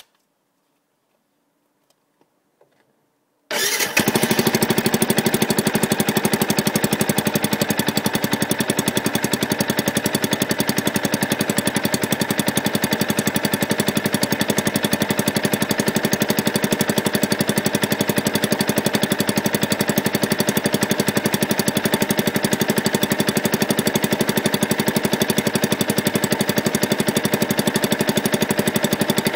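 Yamaha YZF-R125's 125 cc single-cylinder four-stroke engine, heard from a microphone under the bike, comes in abruptly about three and a half seconds in and then idles steadily at an even speed.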